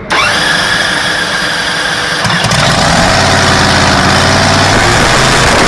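An engine starting up and running, loud from the first moment. About two to three seconds in it settles into a steady, even low running note.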